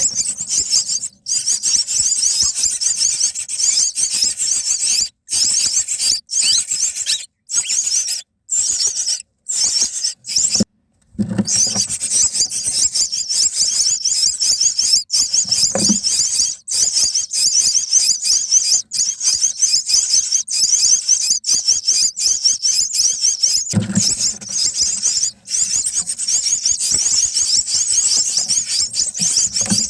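Myna nestlings begging for food: a dense, high-pitched chorus of rapid squeaky calls that cuts off abruptly several times in the first third, then runs on unbroken.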